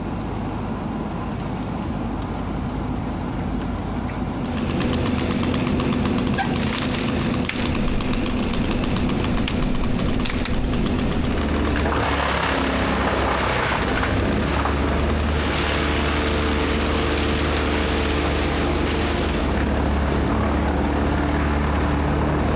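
Diesel engine of a Merlo crane telehandler running steadily, with a rougher noise joining about four seconds in and the engine drone picking up about halfway through as it works under load.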